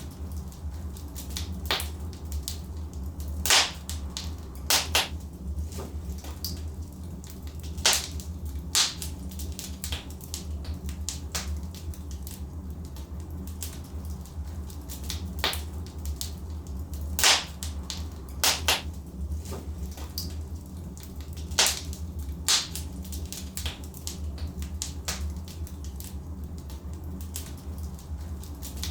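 Burning logs in a fireplace crackling, with irregular sharp pops scattered throughout and several louder snaps, over a steady low rumble.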